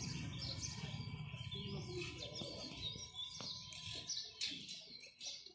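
Small birds chirping and twittering in quick, overlapping calls. A low rattle underneath fades out over the first two seconds.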